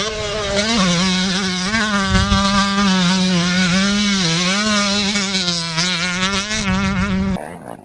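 125cc two-stroke motocross bike engine running hard, its pitch held high and wavering up and down with the throttle. It cuts off suddenly near the end, leaving a fainter buzz.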